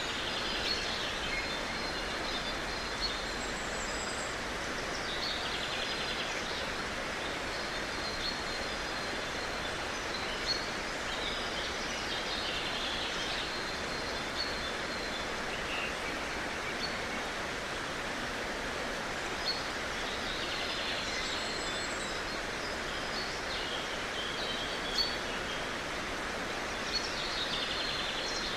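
Steady outdoor background hiss, with small birds calling on and off in short, high chirps and trills, and a few faint clicks.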